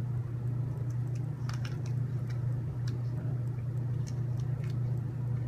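Faint, scattered light clicks of tiny M2x4 screws and small parts being picked up and handled, over a steady low hum.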